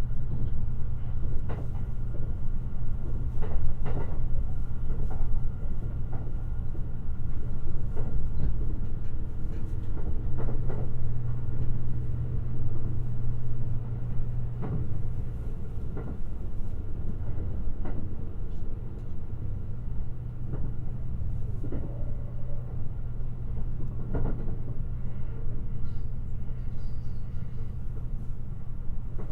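Limited Express Shirasagi electric train running at speed, heard from inside the car: a steady low rumble and hum with knocks now and then from the wheels over the track.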